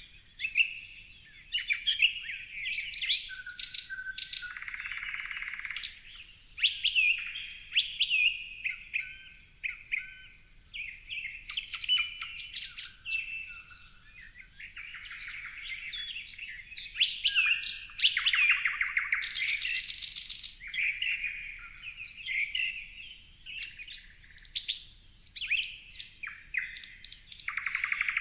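Several songbirds singing and calling together: a dense chorus of quick chirps, whistled glides and a few buzzy, rattling trills.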